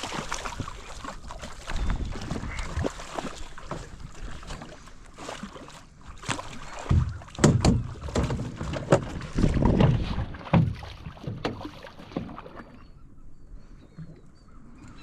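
Water slapping and splashing against the hull of a drifting fishing boat, with scattered knocks and clicks. It is heaviest about seven to eleven seconds in and settles near the end.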